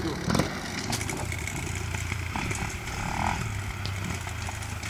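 Enduro dirt bike engine running steadily as the bike climbs a steep dirt trail, with a single short knock just after the start.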